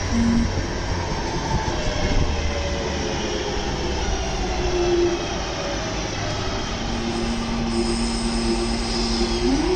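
Train at the station: the drive whine falls slowly in pitch as it slows, settles into a steady hum, then starts rising right at the end as the train pulls away.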